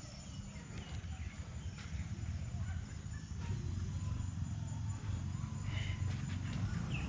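Low steady rumble with scattered faint bird calls and a few soft knocks; the calls gather near the end.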